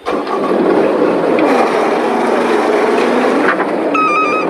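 A bulldozer's diesel engine comes in suddenly and runs loudly and steadily. A brief high, wavering tone sounds near the end.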